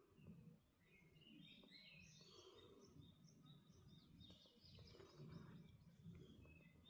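Faint birdsong in a forest: a run of short, quick chirping notes repeated over a few seconds, with a soft low rustle underneath.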